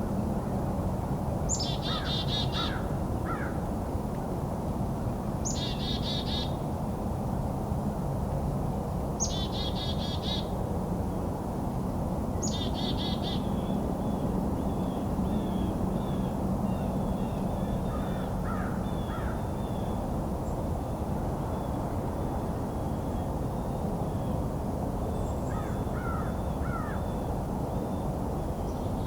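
A bird giving a harsh, buzzy call four times, about every three and a half to four seconds, with a few lower short notes between and fainter high notes later on.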